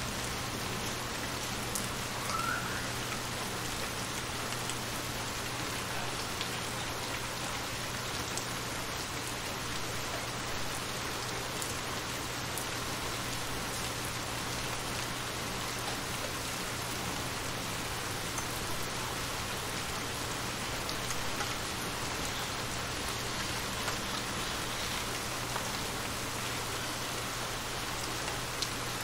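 Steady rain falling on shallow water, a dense patter of drops splashing on the surface with a few louder single drops now and then.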